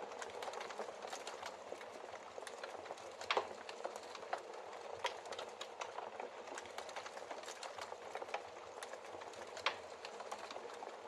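Wood fire burning: logs crackling with a steady hiss and frequent irregular sharp pops, the loudest about three seconds in and again near the end.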